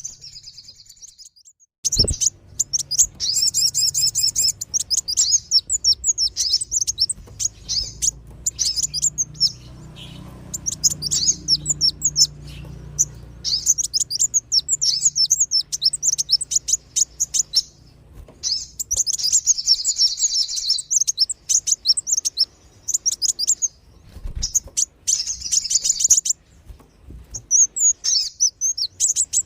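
Bird-lure recording of kolibri wulung and sogon (small sunbird-type birds) calling: rapid, very high-pitched chirps in dense bursts, broken by short pauses.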